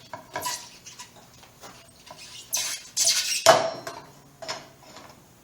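Metal clicks, scrapes and rattles as a minibike's rear sprocket assembly is worked into the brake caliper between the pads, with a louder scrape and then a sharp metallic clank that rings briefly about three and a half seconds in.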